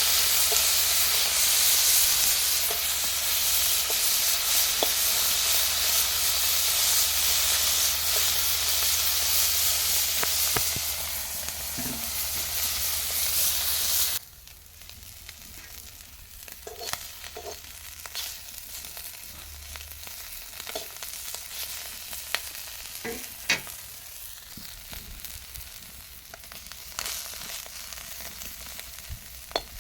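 Small fish sizzling loudly in hot oil. About fourteen seconds in, the sizzle drops suddenly to a much quieter fry, with scattered clicks and knocks of stirring in the pan.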